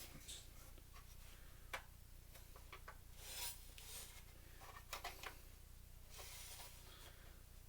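Faint rubbing and a few small clicks as hands work the plastic parts of a Blu-ray player that is being taken apart.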